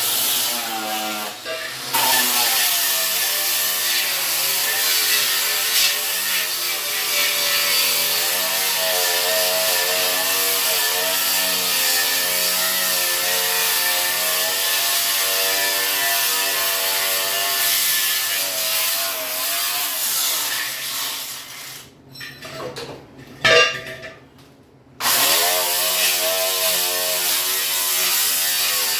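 Electric grinder working on steel, a steady hiss with a motor whine whose pitch sags and recovers as it is pressed into the metal. It stops for a few seconds about three-quarters of the way through, with one sharp clank in the pause, then runs again.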